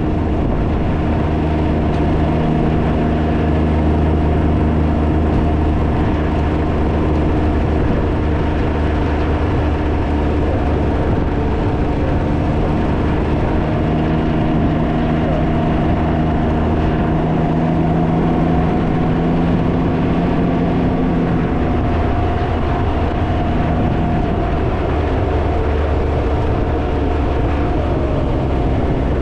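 Can-Am Ryker three-wheeler's engine running at a steady cruise, its pitch holding fairly even, under heavy wind buffeting on the microphone.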